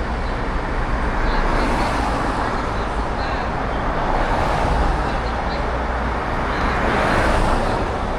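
Steady street traffic noise with a low rumble of wind on the microphone, as heard from a moving e-bike.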